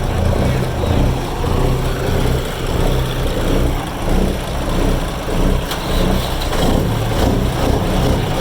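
Several Cummins KTA-19 inline-six diesel engines (1150 cubic inches) idling together with an uneven, pulsing lope.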